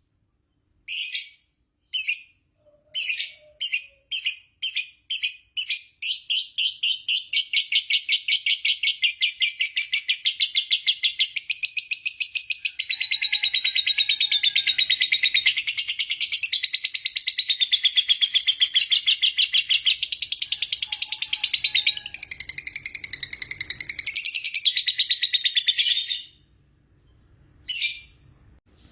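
Lovebird's long 'ngekek' song: a few short separate chirps, then one unbroken, rapid chattering trill lasting about twenty seconds that stops suddenly, followed by a couple more short chirps near the end.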